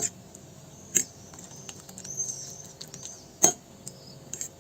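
Eggs, grated cheese and spices being beaten together in a large plate: a utensil scraping and tapping against the plate. There are four sharper clinks, the loudest at the very start and about three and a half seconds in.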